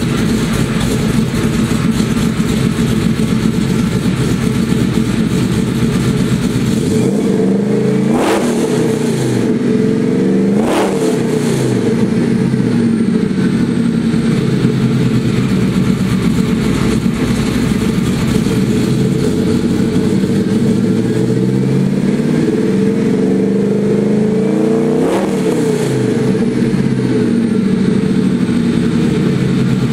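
A truck's newly installed engine running steadily with a low growl.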